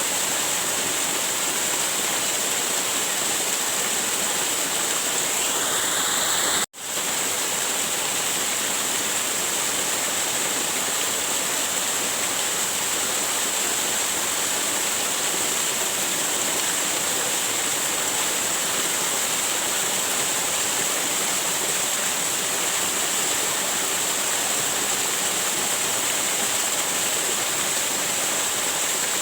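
Waterfall rushing steadily, an even roar of falling water. About seven seconds in, the sound cuts out for an instant and comes straight back.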